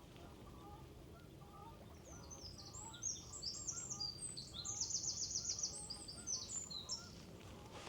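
A small songbird singing a rapid, high-pitched song of quick varied notes lasting about five seconds, with a fast trill in the middle, over faint steady background noise.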